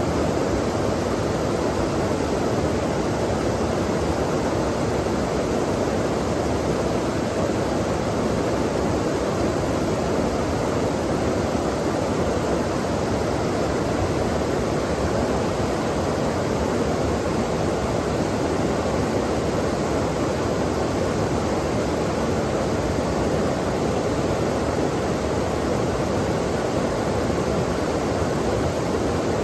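Flowing water rushing steadily, an even, unbroken sound of a current of water.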